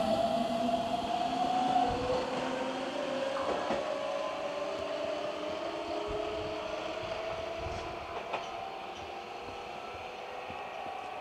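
Keihan 9000-series electric train running slowly into the station with a slowly rising electric whine over a steady rumble, with a few faint clicks from the wheels. The sound fades gradually.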